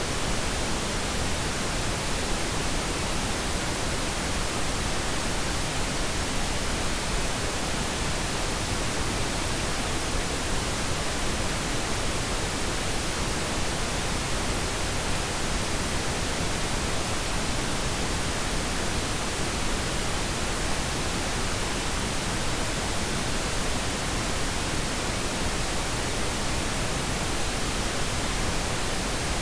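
Steady pink noise: an even, unchanging hiss spread across the whole range of pitch, with nothing else heard.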